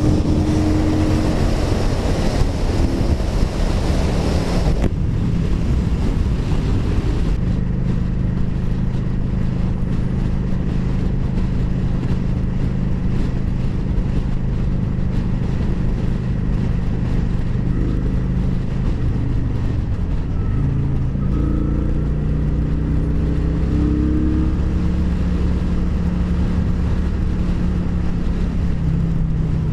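Motorcycle engine heard while riding, with heavy wind rush on the microphone for the first few seconds. The wind dies away as the bike slows, the engine runs steadily for about twelve seconds, then about two-thirds of the way through it pulls away with the revs rising through several gear changes.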